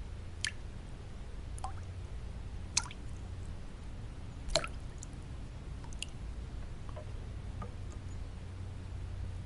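Water drops falling one at a time at irregular intervals, about a drip a second, each a short sharp plink, over a steady low white-noise hum.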